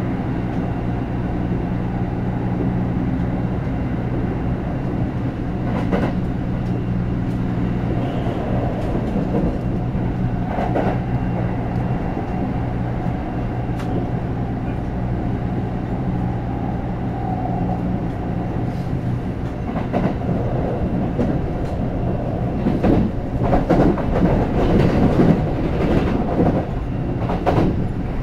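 Running sound inside a Kintetsu 9020-series electric train at speed: a steady low hum from the running gear, with wheels clacking over rail joints, and a busier stretch of clatter near the end.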